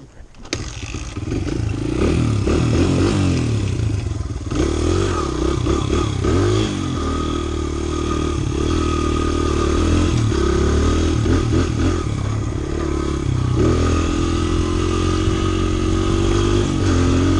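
Honda CRF100 dirt bike's small four-stroke single-cylinder engine being ridden, its pitch rising and falling again and again with throttle and gear changes. It comes in sharply about half a second in.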